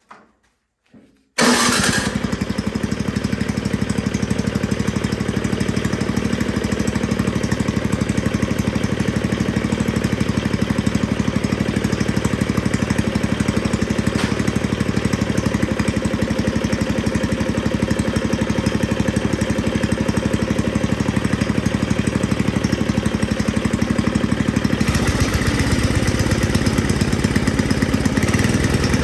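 Tecumseh 5 hp single-cylinder four-stroke engine on a Snapper snowblower starting about a second in, cold with a little choke and the throttle at idle, then running steadily. Its note changes near the end.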